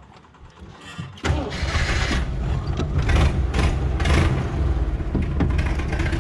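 Jeep CJ7's engine starts suddenly about a second in and keeps running, with several surges of revving.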